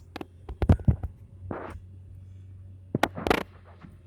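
Car engine and road noise as a steady low hum inside the moving car's cabin, with a few irregular clicks and knocks, in two clusters near the start and about three seconds in.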